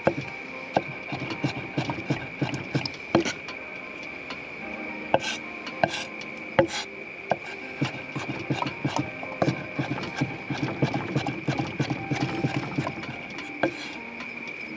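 Knife chopping food on a cutting board: irregular knocks, several a second, some louder than others, over a steady high-pitched tone.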